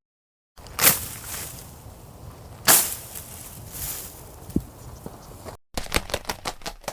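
Two sharp cracks over a steady hissing background, then after a brief break a rapid run of sharp clicks near the end.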